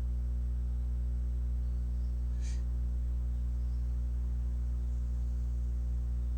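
Steady low hum with evenly spaced overtones in the video-call audio, while a phone and a computer are both connected to the call. A faint short tick comes about two and a half seconds in.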